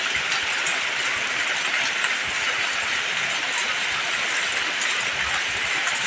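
Steady rain pouring down, an even hiss without pause.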